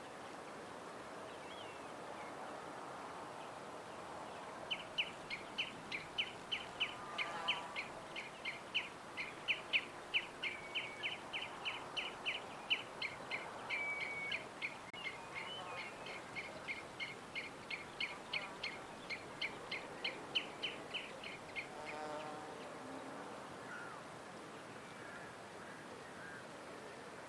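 A songbird chirping in a long, even series of short, sharp chirps, about three a second, starting about five seconds in and stopping about three-quarters of the way through, over a steady outdoor hiss. A few fainter, lower bird calls sound around it.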